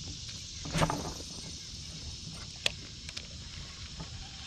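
Insects singing in a steady high-pitched chorus, with a brief noisy burst about a second in and a sharp click near the three-second mark.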